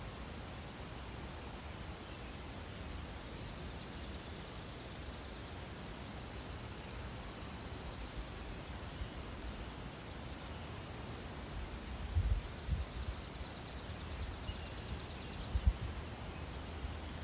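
Rural outdoor ambience: a high, rapidly pulsing trill comes in spells of two to three seconds over a steady low background. Two low thumps come in the second half.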